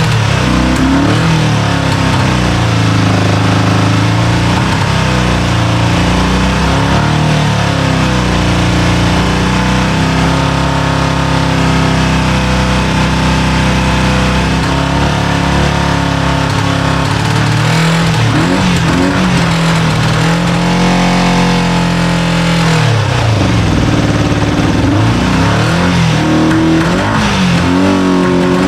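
Kawasaki GPz400R's rebuilt inline four-cylinder engine running on its first start, its revs rising and falling with repeated throttle blips. About two-thirds of the way through the revs sag and then pick back up. It is not running right, which the owner suspects may be bad fuel.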